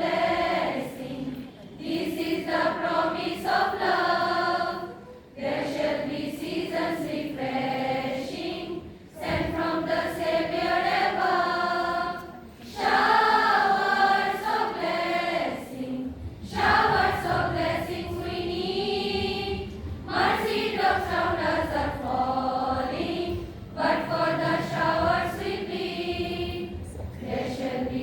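A group of nursing students singing a prayer song together as a choir, in phrases of a few seconds each with short breaks between them.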